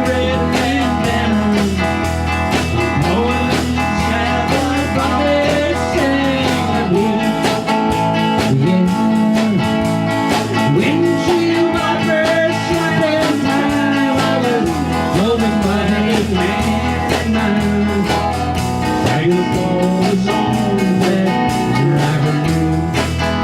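Country-blues rock band playing an instrumental passage: a lead guitar line with bending notes over a bass line and a steady drum beat, the bass dropping out for a few seconds about a third of the way in and again near the end.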